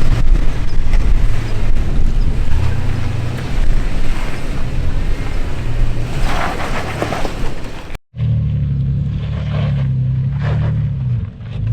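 Off-road truck engine running steadily at low revs while crawling a rock trail, with wind noise on the microphone. About eight seconds in, the sound cuts out for an instant and comes back with less wind.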